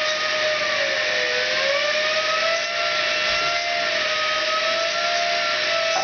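A Dyson DC08 vacuum cleaner rushes as its airflow spins a ball-bearing computer fan at high speed. A steady whine rides over the air noise, sagging in pitch about a second in and then wavering back up as the fan's speed shifts.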